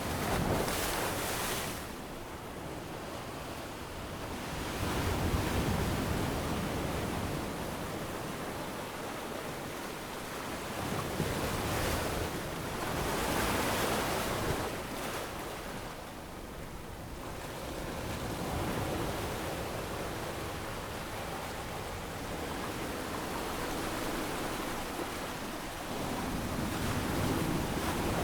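Ocean waves breaking and washing on a sandy beach, the surf swelling and falling every few seconds.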